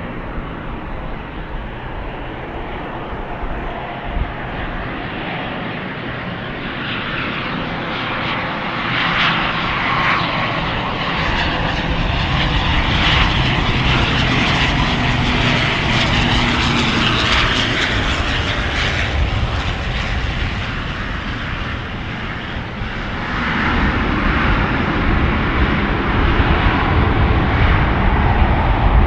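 Airliner engines as a plane passes, growing louder to a peak about halfway through and then easing off, with a deep rumble building again near the end.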